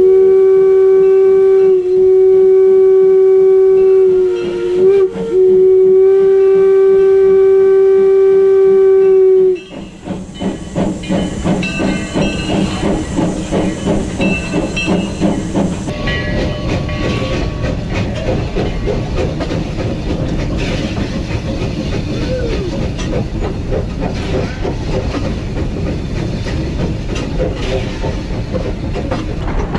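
Steam locomotive whistle blowing a long steady blast of nearly ten seconds, broken by two brief gaps, with a second higher tone sounding alongside it for the first five seconds. The whistle then cuts off, and the train is heard running with a rapid rhythmic clatter.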